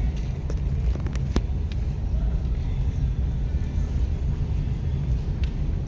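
Steady low rumble of a moving car, with a few brief clicks in the first second and a half.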